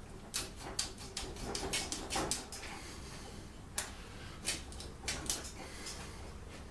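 A series of irregular light clicks and knocks, about a dozen close together in the first two and a half seconds and a few more spaced out around four to five and a half seconds in.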